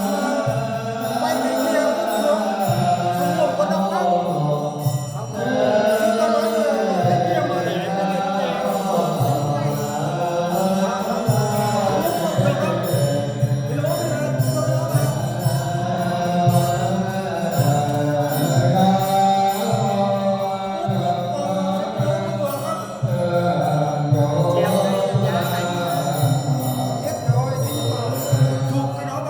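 Buddhist chanting: voices intoning a mantra-like chant continuously on a few held, gliding pitches, without pause.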